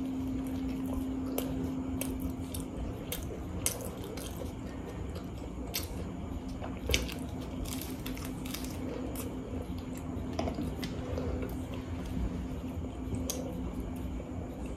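Biting into and chewing a fried samosa: wet mouth and chewing sounds broken by many scattered sharp crunches of the pastry.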